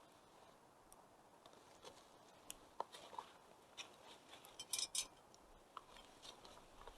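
Wood fire crackling faintly: scattered small pops and snaps, with a quick cluster of sharper ones about five seconds in, over a faint steady hiss.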